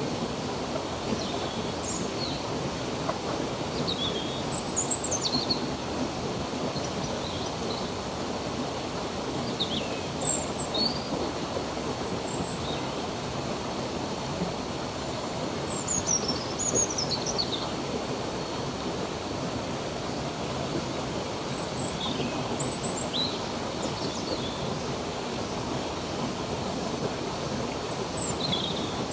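Steady rush of a flowing stream, with small birds chirping now and then in short, high, sweeping notes.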